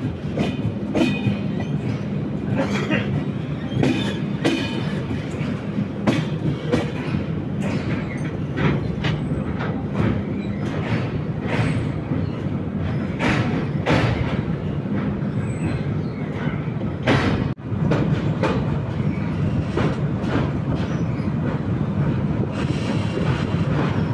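Passenger train running, a steady rumble with wheels clacking irregularly over rail joints.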